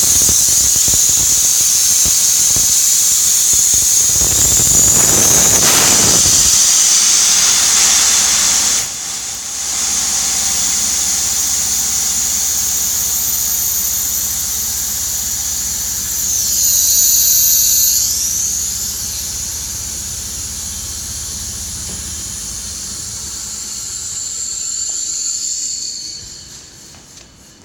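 Hitachi POD-1.5MA5 oil-free Bebicon compressor with compressed air hissing out at a high pitch, loudest in the first nine seconds or so. The compressor's low steady hum runs underneath and stops a few seconds before the end. The hiss then fades out.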